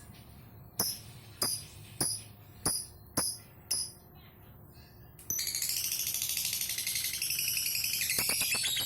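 Lovebird calling: six short, sharp shrieks about half a second apart, then, about five seconds in, a loud unbroken high-pitched chattering trill, the 'ngekek' song.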